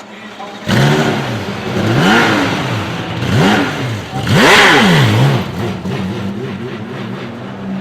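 Porsche 911 GT3 Cup race car's flat-six engine revving, its pitch rising and falling about four times, loudest about halfway through, then settling to a steadier, lower drone.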